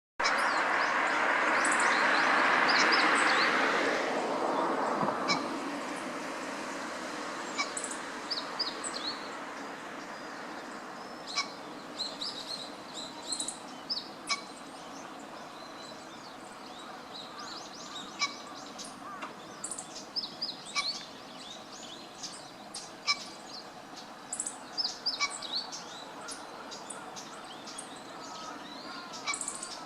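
Long-tailed rosefinches calling with many short, high chirps scattered throughout. A loud rushing noise over the first few seconds fades out.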